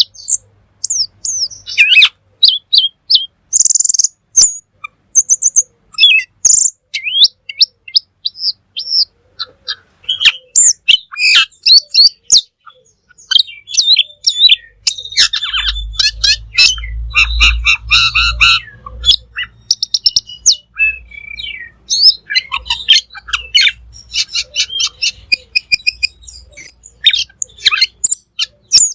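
Cucak keling songbird singing continuously in a rapid mix of chirps, sharp whistles and chattering notes, with a low rumble underneath for a few seconds in the middle.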